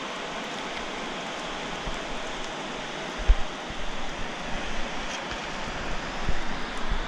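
A steady rushing hiss like running water. From about three seconds in, low bumps on the microphone join it, growing more frequent toward the end.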